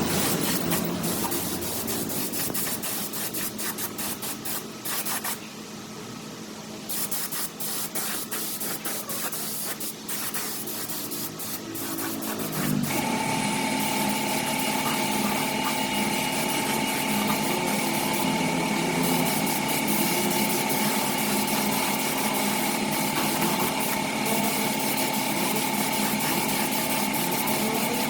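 Scraping and rubbing for the first dozen seconds. Then, about halfway through, a small electric power tool spins up and runs steadily with a high whine.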